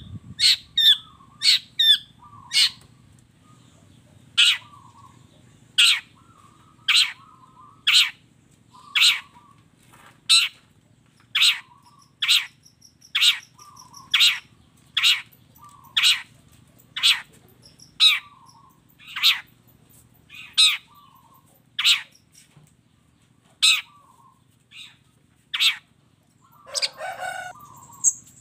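Long-tailed shrike (cendet) calling in full song: short, sharp calls repeated about once a second, with a longer, lower, rasping phrase near the end. A faint low hum runs underneath.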